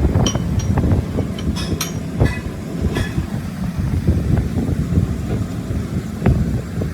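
Workshop metalwork on a vehicle wheel hub: a steady low machine rumble with scattered metal clinks and knocks, some ringing briefly, and a louder knock near the end.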